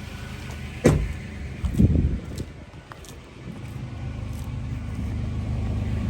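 Toyota FZJ80 Land Cruiser's 4.5-litre straight-six idling steadily and smoothly after a cold start. About a second in there is a sharp click, followed by a heavy thump about a second later, as the driver climbs out through the door.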